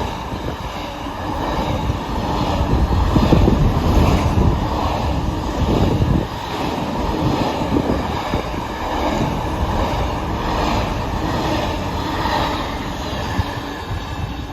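Freight train wagons rolling past, a steady rumble of wheels on rail with a regular beat roughly once a second, loudest a few seconds in and easing slightly after.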